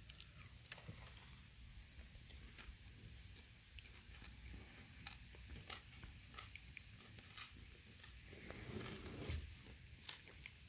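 Faint, steady insect chirping in an even repeating pulse, with scattered small clicks and a brief soft rustle about nine seconds in.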